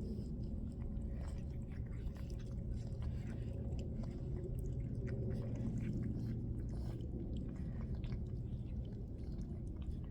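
Cats chewing food, many small irregular clicks, over a steady low hum.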